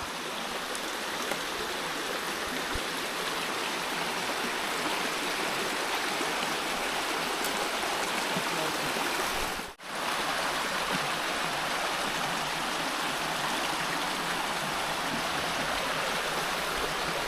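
Steady rush of flowing water from a stream, cut off for a split second a little before halfway and then carrying on.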